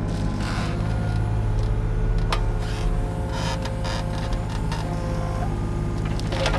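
Excavator's diesel engine running under load with its hydraulics whining, and a few sharp cracks or clanks through it.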